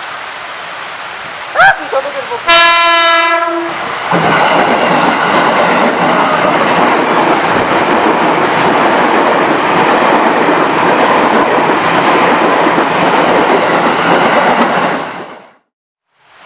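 KRL commuter electric train sounding its horn, a short blip and then a longer blast. The train then passes close by with a steady rumble and wheel clatter over heavy rain, and the sound drops away abruptly near the end.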